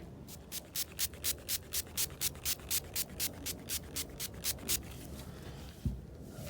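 Headlight lens being wet-sanded by hand with a soaked sanding pad from a headlight restoration kit: quick back-and-forth strokes, about four a second, that stop about two thirds of the way through. A single thump follows near the end.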